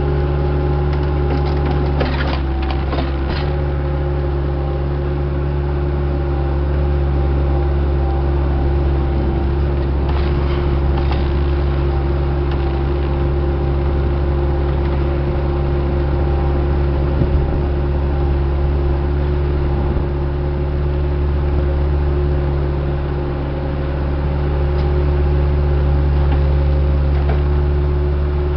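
Diesel engine of a working piece of heavy equipment running steadily under load, with a few sharp metallic clanks a couple of seconds in and again about ten seconds in. The engine eases off briefly about two-thirds of the way through, then picks back up.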